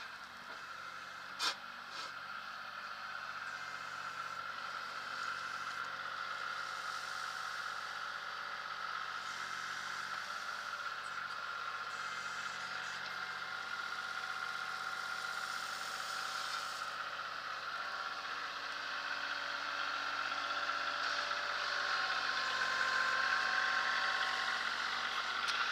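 Kioti CK20 compact tractor's 22 hp three-cylinder diesel engine running steadily while the backhoe is worked, with rattling and a sharp click about a second and a half in. The sound grows gradually louder toward the end.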